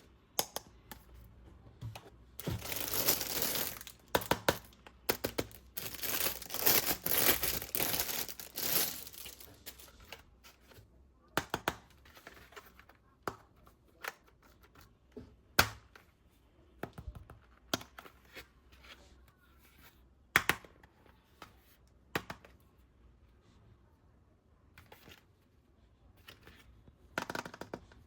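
Packaging being torn open, with plastic and paper crinkling in dense bursts for several seconds. Then scattered sharp clicks and light knocks, as of toy parts being handled.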